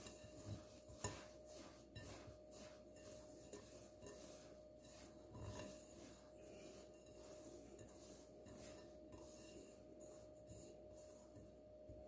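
Faint, gritty rubbing of semolina being worked between the hands with butter and oil in a bowl, with a couple of light clicks in the first second.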